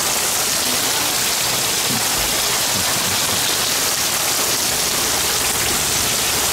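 Heavy rain really coming down in a steady, even hiss.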